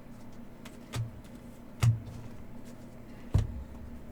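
Three short dull knocks, about a second or more apart, as trading card boxes and packs are handled and set down, over a steady low room hum.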